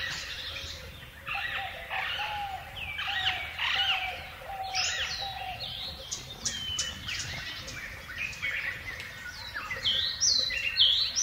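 Birds chirping: a busy string of short, rising and falling calls, several overlapping, a little louder near the end, over a faint low background rumble.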